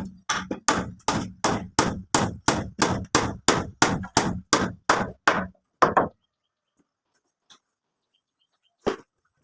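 A hand tool striking a surface in a steady run of blows, about three a second, stopping about six seconds in. Two more single blows follow near the end.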